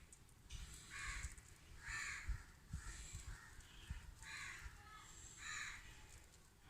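Crows cawing, a string of about six harsh caws roughly a second apart.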